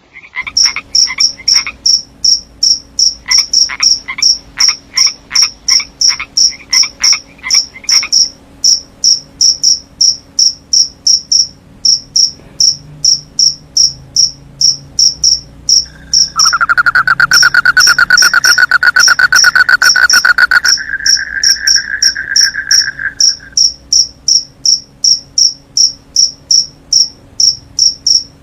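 Night chorus of crickets and frogs: loud, evenly repeated high cricket chirps a little over two a second, with frogs croaking in quick series over the first eight seconds. A little past halfway a loud buzzing trill joins in for about seven seconds, then stops.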